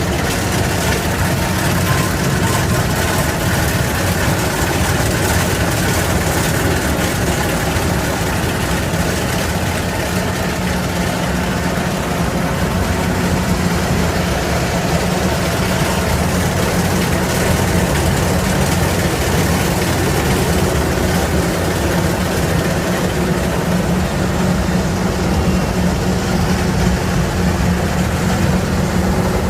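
Rice combine harvester running steadily, its engine giving a continuous low drone with the machine's noise over it.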